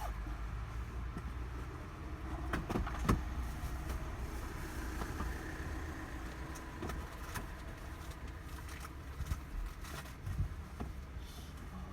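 Steady low rumble of a motor vehicle running, with several sharp clicks and knocks about three seconds in and a few more later.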